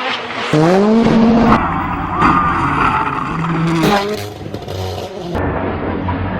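Rally car engine revving up sharply with tyres skidding, in several short clips cut together.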